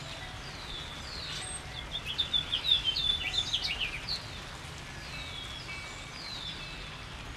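A songbird calling over the steady hiss of rain: short high whistles that slide downward, repeated every second or so, with a burst of quick twittering chirps from about two to four seconds in.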